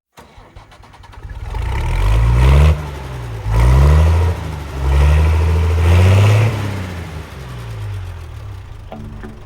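A vehicle engine revving up and dropping back several times, with its pitch climbing and then falling each time, loudest in the middle.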